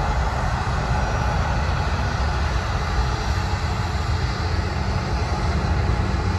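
Airbus A319 jet airliner's engines at takeoff power as it climbs away, a steady deep rumble.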